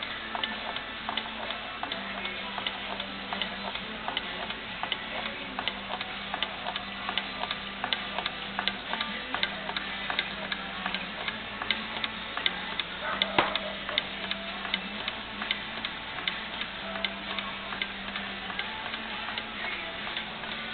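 Small dual-crankshaft engine mechanism turning over, ticking evenly a few times a second, with a low hum that comes and goes and one sharper click about two-thirds of the way through.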